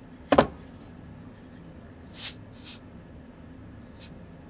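A sharp knock on the watchmaker's bench, then two short hisses about two seconds later and a faint third near the end.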